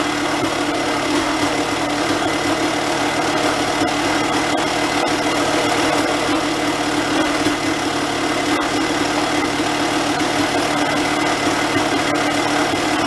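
Honda CR250 two-stroke dirt-bike engine idling steadily through its freshly repacked muffler.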